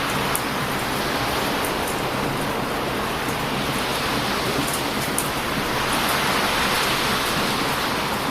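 Heavy ocean surf crashing on a beach in a continuous rush that swells about six seconds in, with faint crackles from a wood fire.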